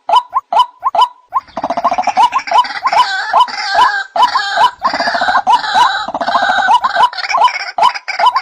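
White-breasted waterhen (ruak-ruak) call as a bird-lure recording. It starts with short repeated hooting notes, about three a second. From about one and a half seconds in comes a dense, harsher chorus of overlapping croaking calls, and near the end it falls back to the single repeated notes.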